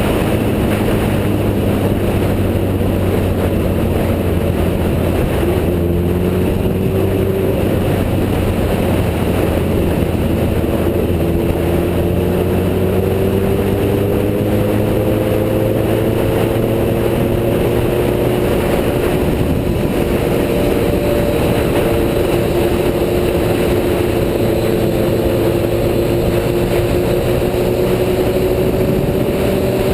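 Motorcycle engine running steadily while riding, its pitch climbing slowly through the second half as it gathers speed, over a constant rush of wind noise.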